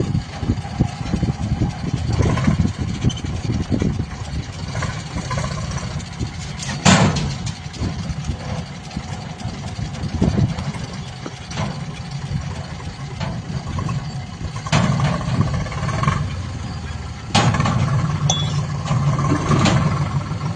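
JCB backhoe loader's diesel engine working while loading mud, its rumble rising and falling with the load and getting louder near the end. Several sharp knocks and clanks from the bucket, the loudest about seven seconds in.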